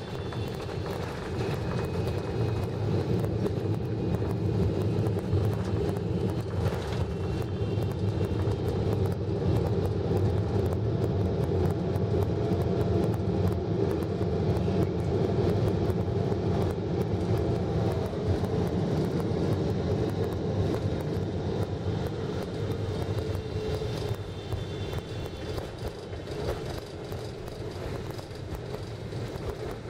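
Cabin noise of a Boeing 777-300ER on the ground: a steady rumble of engines and rolling wheels, easing slightly in the last few seconds.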